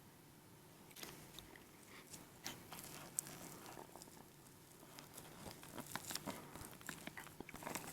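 A person chewing and crunching food, with irregular crisp clicks and crackles of the mouth starting about a second in.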